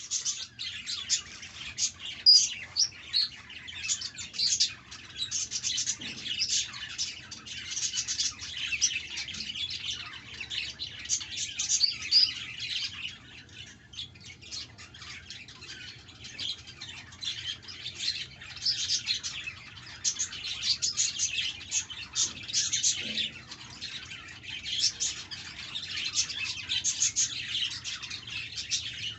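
Budgerigars chirping and chattering continuously, many quick chirps overlapping with hardly a pause.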